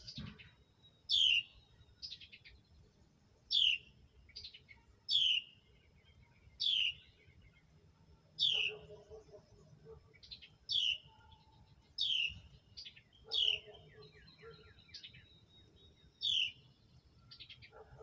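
A bird calling over and over: a loud note that falls sharply in pitch about every second and a half, with quieter short chirps between.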